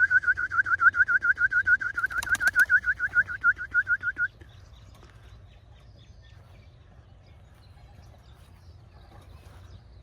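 A loud, rapid trilled whistle, about eight short rising notes a second, for roughly the first four seconds, with a few sharp clicks around two seconds in. After that only faint background remains.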